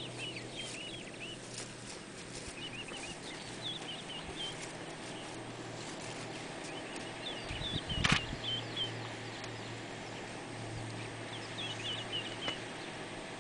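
Small birds chirping, short calls in little runs, over a low steady hum, with one loud knock about eight seconds in.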